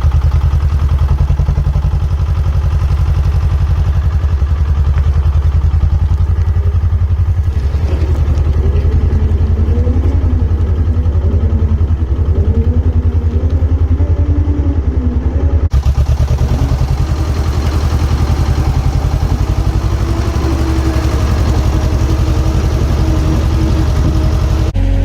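Diesel engine of heavy site plant running steadily under work, with a deep, even throb. Wavering higher whining tones come and go through the middle, and the sound breaks off abruptly twice where the footage is cut.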